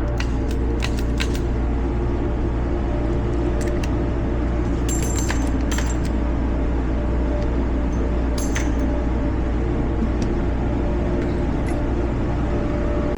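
Scattered light metallic clicks and clinks, a handful spread over several seconds, over a steady low hum: a revolver and its cartridges being handled between shots.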